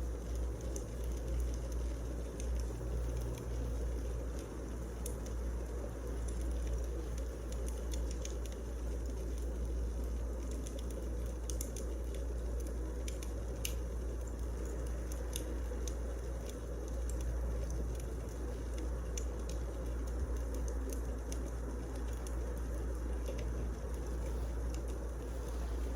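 Wood fire burning in a fireplace: a steady low rumble with scattered sharp crackles and pops of the burning logs.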